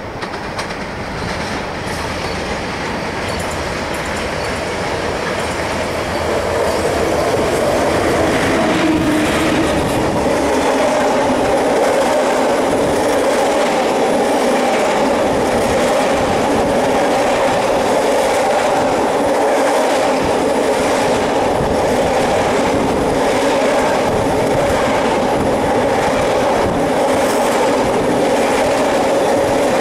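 Freight train hauled by an ET22 electric locomotive approaching and passing close by, then a long string of flat wagons rolling past with rhythmic clickety-clack of wheels over rail joints. The noise builds over the first several seconds, then holds steady and loud.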